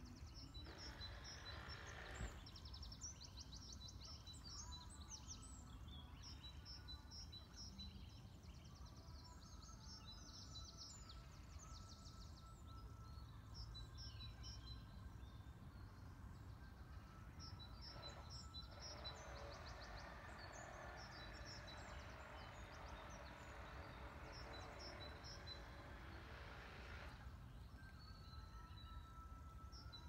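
Faint birds chirping and singing, many short high calls throughout, over a low steady background hum.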